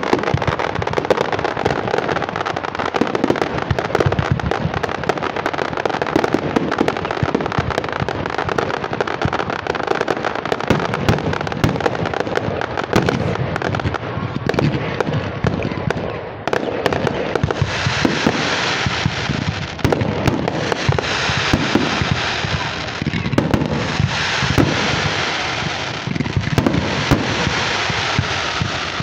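Fireworks display: a dense, rapid crackling and popping of many small bursts. Over the second half a hissing rush swells and fades in waves on top of the crackle.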